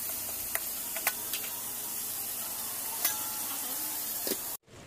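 Food frying in hot oil in a pan, a steady sizzle, with a few sharp clicks of a utensil against the pan as it is stirred. The sizzle cuts off suddenly near the end.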